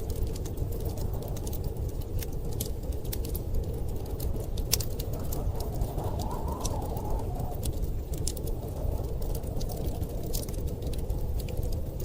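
Wood fire crackling in a fireplace, with frequent irregular sharp pops, over a steady low rush of storm wind that swells briefly about six seconds in.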